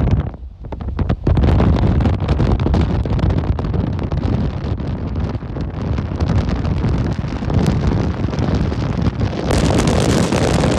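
Blizzard wind gusting hard and buffeting the microphone: a loud, dense rushing noise with no tone. It eases briefly just after the start, comes back strong, and grows harsher in a gust near the end.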